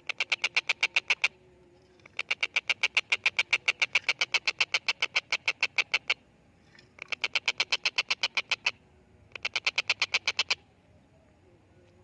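Tengkek buto kingfisher calling: a rapid chattering series of sharp, high notes, about ten a second, in four runs with short pauses between them; the longest run lasts about four seconds.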